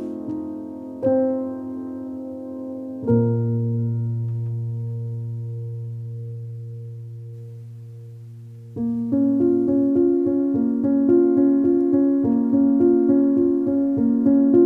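Background music on piano or electric piano: a couple of struck chords, then one long held chord that slowly fades, then a steady run of repeated broken-chord notes starting about nine seconds in.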